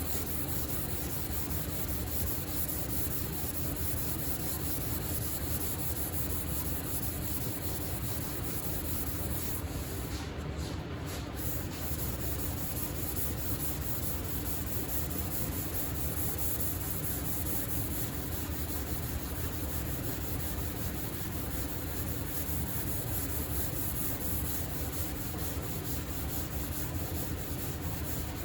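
Sandpaper rubbing steadily over primer-surfacer on a car body panel, in even repeated strokes, with a faint steady low hum underneath.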